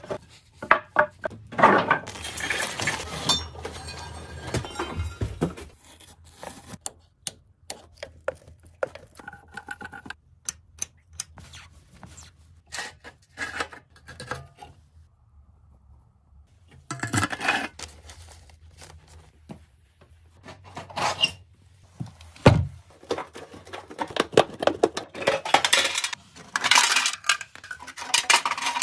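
Metal parts and hand tools clinking, knocking and scraping in irregular bursts, with a few longer scraping stretches and a single low thud in the second half.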